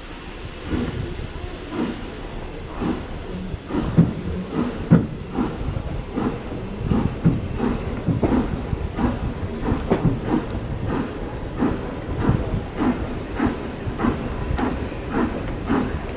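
Steam locomotive working, with a steady run of exhaust chuffs over a low rumble and hiss; the beats quicken slightly as it gathers speed.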